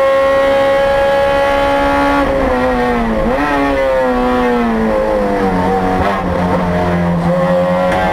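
2008 Honda Civic Si race car's four-cylinder engine, heard from inside the cabin, running at high revs with the pitch still climbing slightly. About two seconds in the car brakes hard: the pitch falls with a few quick jumps back up as it is downshifted, then settles at low revs through the corner.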